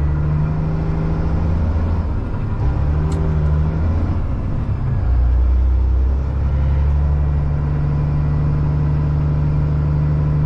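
Caterpillar C-15 inline-six diesel in a Kenworth truck running with a steady low drone. Its note wavers and shifts from about two to five seconds in, then settles again.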